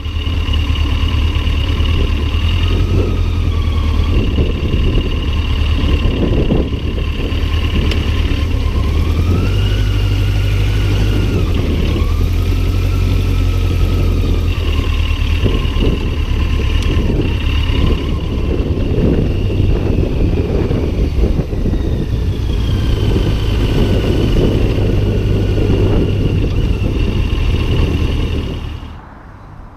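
Heavy wind buffeting on the microphone while riding a Yamaha XJ900 motorcycle, over its engine note, which rises and falls in pitch with changing speed.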